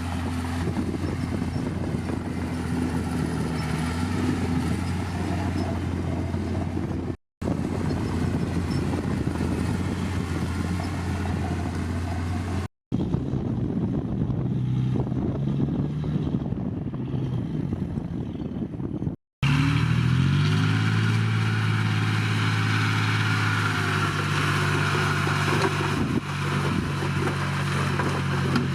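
Heavy diesel engine of earthmoving machinery running steadily, broken by three brief dropouts to silence. After the third, about two-thirds of the way in, the engine rises in pitch over about a second and holds there under load.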